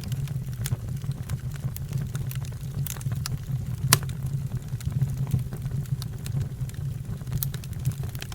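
Fire crackling: scattered sharp pops over a steady low rumble, with one louder pop about four seconds in.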